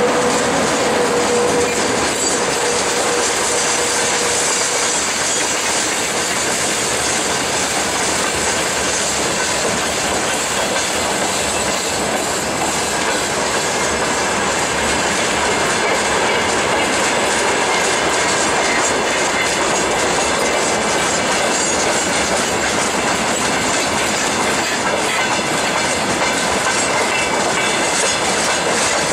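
Freight train wagons, open gondolas and tank cars, rolling past close by: a steady clickety-clack of wheels over the rail joints in a loud, dense rumble and hiss. A steady tone fades out over the first few seconds.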